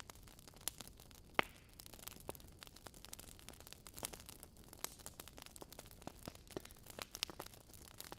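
Wood fire crackling in a fireplace: burning logs giving off irregular sharp pops and snaps over a faint steady hiss, with one louder pop about a second and a half in.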